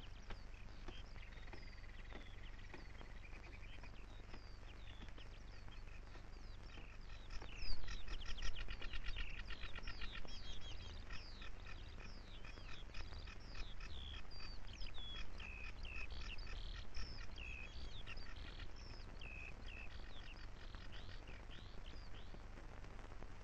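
Birds singing and calling: many quick chirps and short whistled glides with a rapid trill, getting busier about eight seconds in, over a steady low hum.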